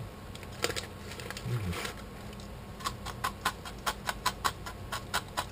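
Crinkly snack bag rustling as a hand reaches in, then rapid close crunching, about five crunches a second, as crisp Eti Crax cracker sticks are bitten and chewed.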